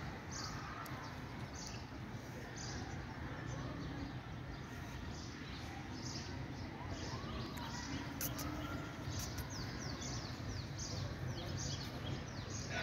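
Outdoor ambience of small birds chirping: many short, quick, high chirps that come thicker in the second half, over a steady low rumble of background noise.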